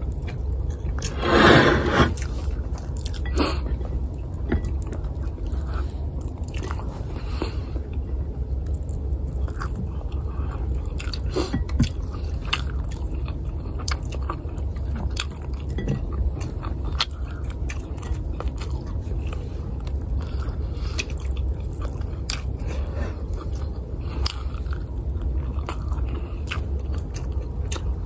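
Close-miked eating sounds: a person chewing garlic fried rice, ham and egg, with many small wet smacks and clicks of the mouth. There is one louder mouth sound about a second and a half in.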